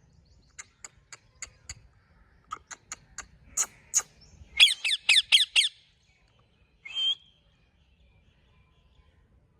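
Ring-necked parakeet calling: a run of short, sharp chirps, then a quick burst of about six loud squawks, each falling in pitch, and one more call near the end.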